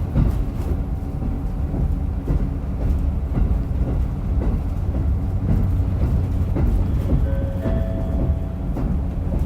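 Onboard running sound of a diesel railcar: a steady low rumble of engine and rolling wheels, with light clicks of the wheels over the track.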